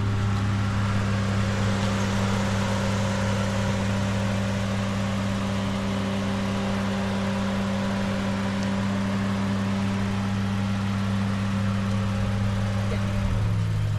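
Toyota Mark X V6 with a modified exhaust running steadily, a constant engine drone. The pitch drops slightly near the end.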